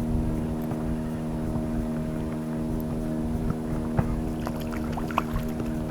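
Yamaha 5 CMHS two-stroke outboard motor running at a steady speed, with a couple of short light knocks about four and five seconds in.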